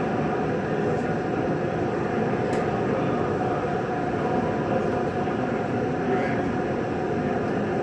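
Steady mechanical rumble and hum, even in level throughout, with no distinct knocks or changes.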